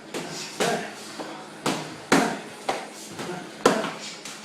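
Punches landing in a fast series: about eight sharp smacks, roughly two a second, several in quick one-two pairs.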